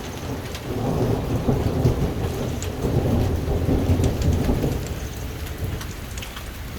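Thunder rolling in a long low rumble that swells and then eases off near the end, over steady rain with scattered sharp ticks of small hail.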